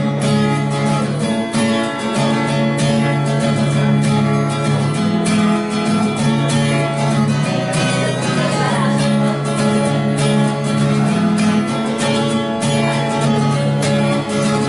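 Acoustic guitar strumming chords in a steady rhythm, the instrumental opening of a mellow song.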